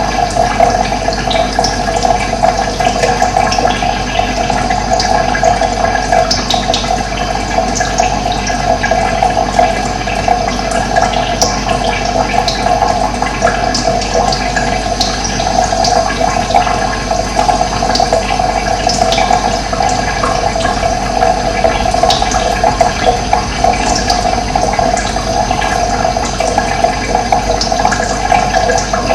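Steady rushing of running water, with short high bird chirps scattered over it.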